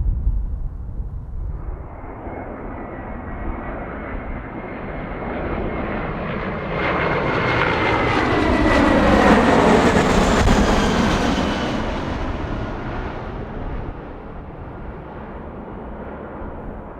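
Jet airliner flying close past, its engine noise building to a peak about nine to ten seconds in and then fading away. A high engine whine drops in pitch as the aircraft goes by.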